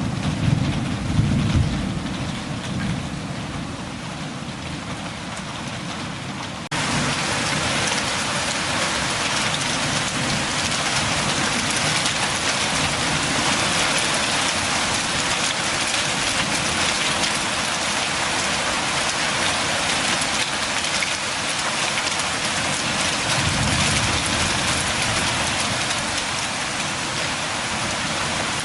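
Steady rain, with a low rumble of thunder in the first couple of seconds. About seven seconds in, it cuts abruptly to a louder, brighter rain hiss that then runs on evenly.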